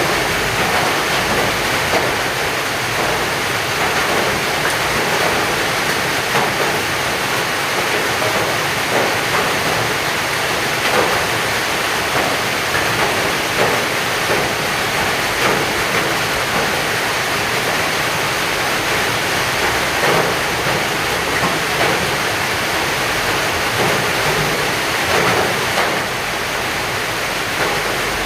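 Heavy rain falling, a steady dense hiss with small irregular patters of drops.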